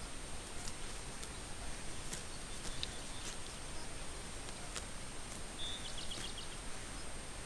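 Faint outdoor hiss with a thin steady high whine and scattered light ticks. A brief run of quick, high chirps from a small animal comes about six seconds in, with a single chirp near three seconds.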